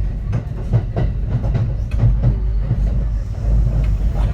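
Kintetsu 3220 series electric train running, heard inside the car: a steady low rumble with many sharp wheel clicks over the rail joints.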